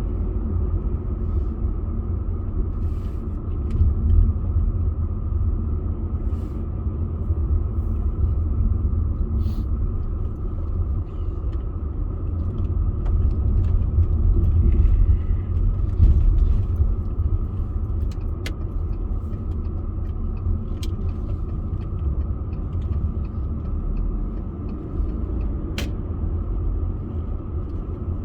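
Steady low rumble of a car driving, road and engine noise, with a few faint clicks scattered through.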